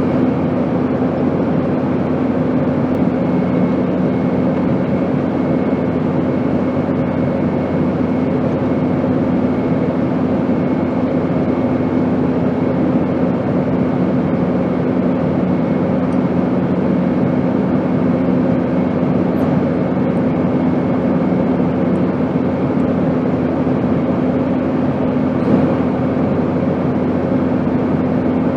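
Airplane in flight: a steady, even rushing noise with a constant low hum running through it.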